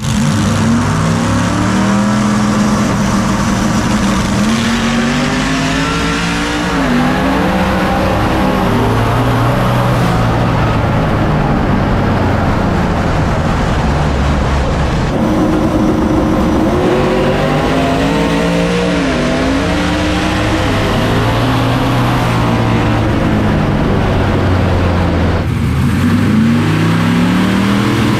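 Race car engine running hard under load, loud throughout, its pitch repeatedly climbing and then dropping back.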